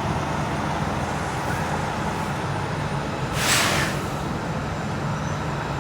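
Steady low motor rumble in the background, with a brief hiss about three and a half seconds in.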